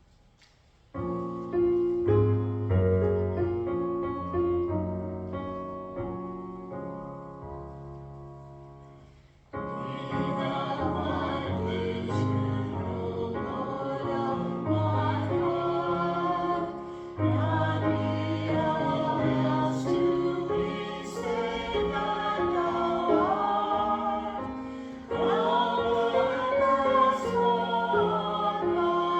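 Piano introduction starting about a second in, then from about nine seconds in voices sing a song with the piano accompanying.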